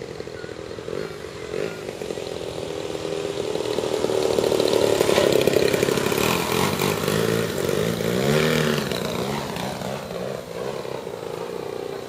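The 120cc gasoline engine of a large-scale Edge 540 aerobatic RC plane running at high power. It grows louder to a peak about five to six seconds in, then fades. Its pitch rises and falls in swoops near the end as the plane manoeuvres.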